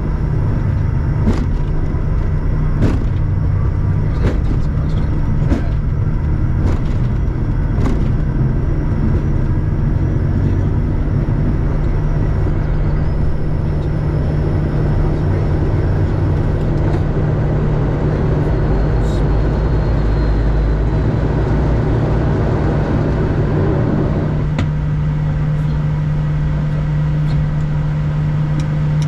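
Bombardier Challenger 350 jet on its takeoff roll: a steady, loud drone from its turbofan engines, with thumps from the runway that come faster and faster as it speeds up. About 24 seconds in the rumbling drops away and the steady drone carries on, as the wheels leave the runway.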